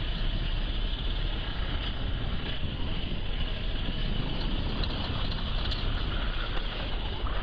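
A motor vehicle running steadily, with wind noise on the microphone.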